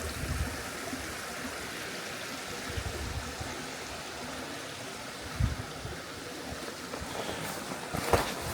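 Mountain stream running steadily, an even rushing of water, with a few soft low thumps and some sharp clicks near the end.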